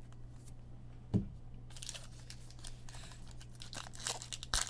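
A foil trading-card pack wrapper crinkling and tearing open, with irregular crackles and a sharp snap near the end. A dull knock comes about a second in.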